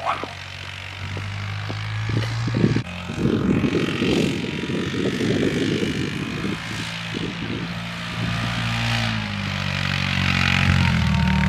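A vehicle engine running steadily while towing a sled over snow, its pitch stepping up and down several times, with a stretch of rushing noise about a third of the way in.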